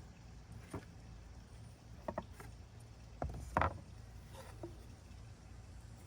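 Scattered light knocks and clatters of small birch wood pieces being handled and set down on a workbench, about half a dozen, the loudest a little past halfway, over a low steady hum.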